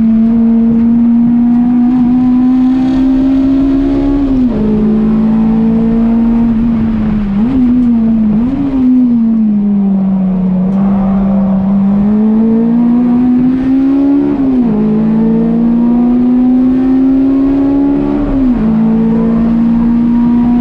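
A car engine pulling hard on a race track, heard from on board. Its pitch climbs slowly through each gear and drops sharply at the shifts, about four, fourteen and eighteen seconds in, with a few quick blips of revs around eight seconds.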